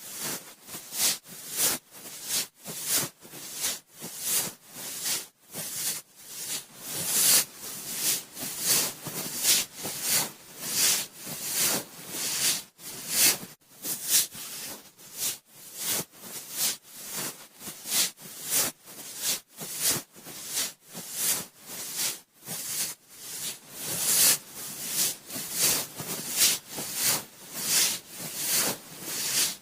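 Cotton swab swirling round and rubbing inside a binaural microphone's ear: close, bright scratchy rustling strokes repeating about one and a half times a second.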